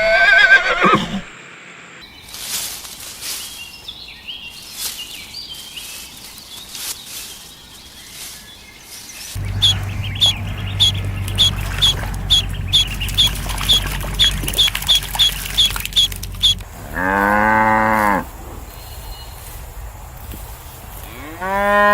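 A string of farm-animal sounds: a short call at the start, then a run of short, evenly spaced chirps about three a second over a low hum, then two drawn-out bleats near the end, typical of sheep.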